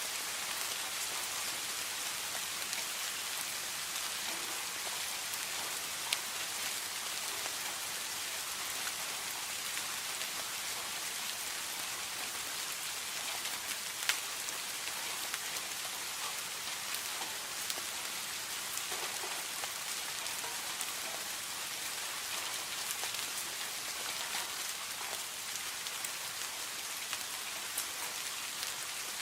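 Steady rainfall, an even hiss of many drops with scattered individual drops ticking, and two sharper single drop hits about six and fourteen seconds in.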